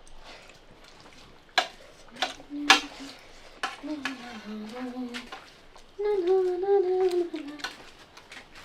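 A few sharp clicks in the first seconds, then a voice humming drawn-out, wavering notes in three stretches, the loudest and longest near the end.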